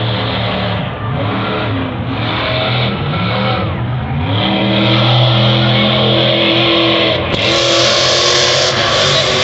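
Monster truck engine revving up and down, then climbing and holding at high revs about halfway through, with a louder rushing noise joining near the end.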